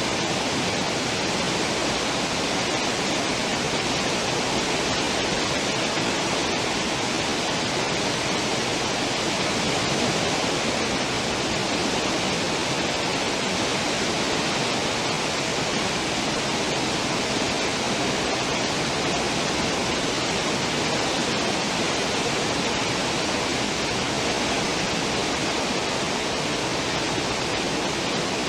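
Steady, unbroken rush of churning, foaming water in a cruise ship's wake.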